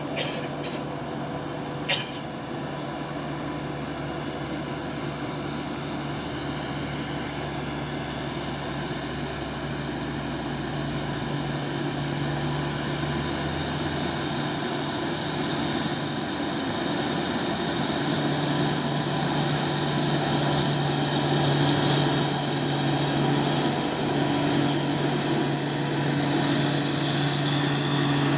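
Heavy truck's diesel engine running steadily, its drone growing gradually louder as it comes closer, with one sharp click about two seconds in.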